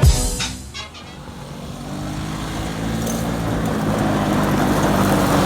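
A vehicle engine running at a steady pitch, growing gradually louder from about a second in. The tail of a music track cuts off at the very start.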